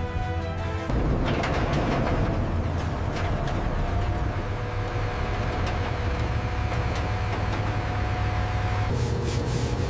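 Music cuts off about a second in, giving way to a heavy tracked vehicle running: a steady low engine rumble with scattered clanks and clicks.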